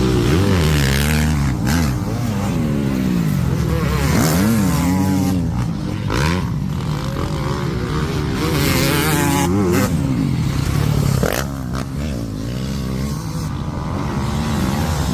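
Dirt bike engine revving, its pitch rising and falling again and again as the throttle is worked.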